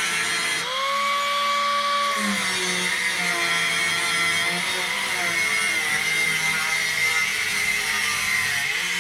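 An electric power tool running continuously in a workshop, its pitch shifting as the load on it changes.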